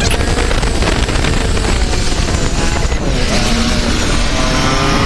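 Motorcycle on the move, with wind rushing over the camera microphone; about three seconds in, an engine's note climbs slowly as it accelerates.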